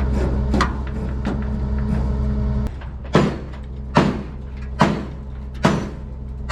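Hammer blows on a dump truck's steel fender to straighten it, a sharp bang about every 0.8 seconds from about three seconds in, with a few lighter taps before. An engine idles steadily underneath and gets quieter just before the blows start.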